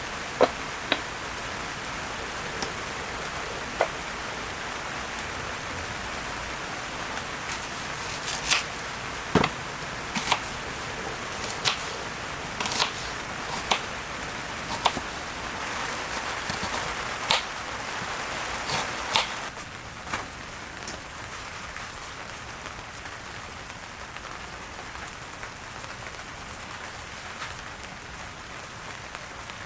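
Steady rain hissing, with irregular sharp taps of single drops striking a nearby surface. The hiss eases a little about two-thirds of the way through.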